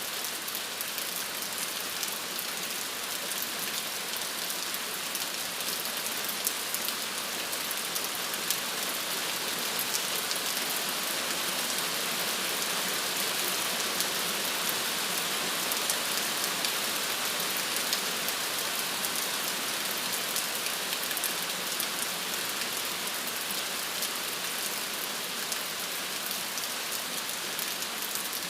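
Steady rain falling, a dense hiss of drops with fine individual patters, swelling slightly in the middle.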